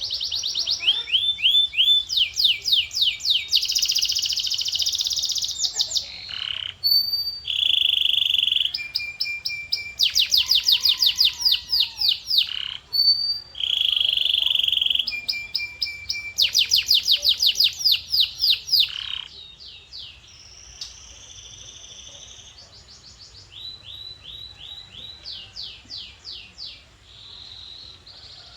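Male domestic canary singing: rapid trills of repeated notes alternating with short steady whistles. The song is loud for about the first two-thirds, then continues more softly.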